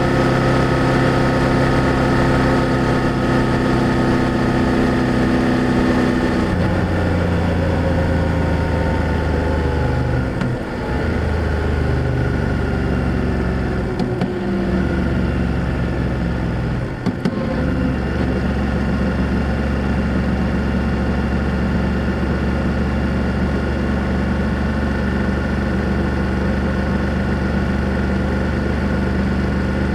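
BMW F800GS parallel-twin engine and exhaust under way, the engine note sinking over several seconds as the bike slows. Three brief dips in the sound come about ten, fourteen and seventeen seconds in, as at gear changes, after which it runs steadily at a lower pitch.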